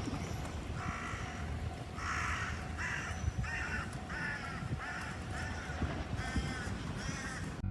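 A bird cawing again and again, about ten harsh calls roughly half a second apart.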